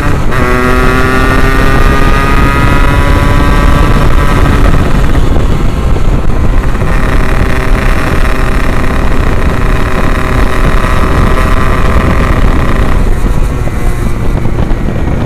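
Yamaha RX-King 135cc two-stroke single-cylinder engine running under way through an aftermarket Abbox C20 exhaust, loud. Its pitch climbs steadily as the revs build, dropping sharply right at the start and again about two seconds before the end.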